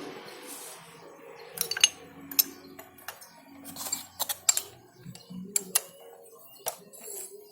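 Irregular metallic clicks and clinks of hand tools working the cylinder head nuts on a two-stroke motorcycle engine, tightened in a crisscross pattern; the loudest clicks come about two seconds in.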